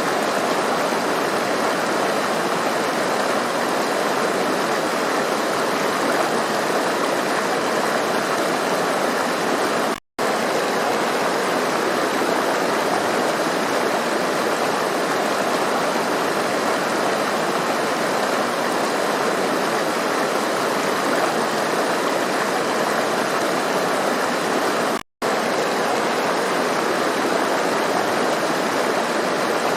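A rushing stream splashing over rocks: a steady, even rush of water. It is broken by two momentary silent gaps, about ten and twenty-five seconds in.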